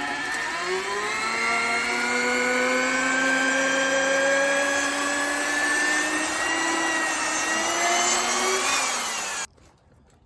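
Electric drill boring through a wooden post with a long auger bit. The motor's pitch sags as the bit bites, climbs slowly as it cuts, and the drill cuts off suddenly near the end.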